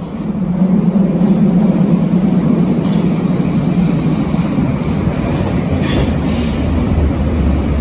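Berlin U-Bahn large-profile train running on the track: a loud, steady rumble that builds within the first second, with short high-pitched screeches of wheels on rail in the second half.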